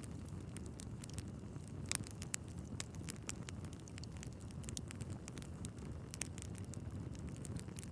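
Wood fire burning in a fireplace: a steady low rumble of flames with frequent sharp, irregular crackles and pops from the logs, a few louder snaps about two and six seconds in.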